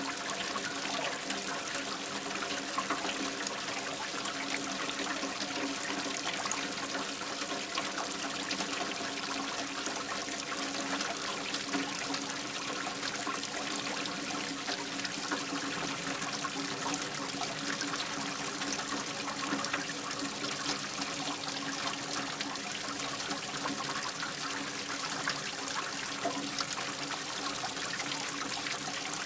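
Steady rain with water trickling and dripping: an even hiss full of small patters, with a faint steady hum underneath.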